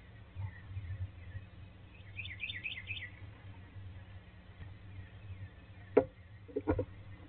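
A bird chirping in a quick run of high notes about two seconds in, over a steady low hum. Near the end a loud sharp knock, then a short cluster of quicker knocks.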